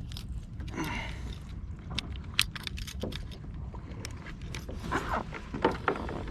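Scattered light knocks, clicks and clatter of gear on a fishing kayak, over a steady low wind rumble on the microphone.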